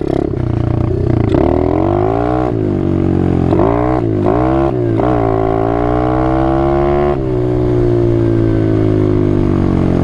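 Yamaha Raptor 90 youth quad's small four-stroke engine revving, its pitch dipping and rising repeatedly over the first five seconds, then held high and slowly falling off after about seven seconds.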